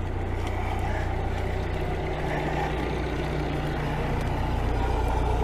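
Perkins 4-108 four-cylinder marine diesel idling steadily with an even low hum.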